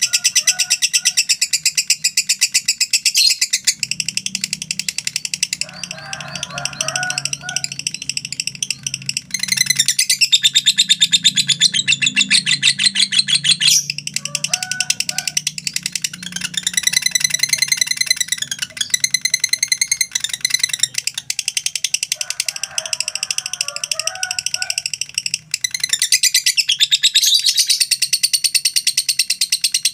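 Lovebird ngekek: a long, unbroken, high-pitched rapid chattering trill, the rattle pulsing many times a second and shifting in pitch now and then.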